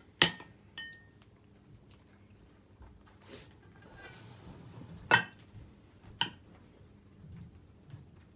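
Spoon and dishes clinking at a meal: four sharp clinks, the loudest a moment in, one with a brief ring about a second in, then two more about five and six seconds in, with faint handling noise between.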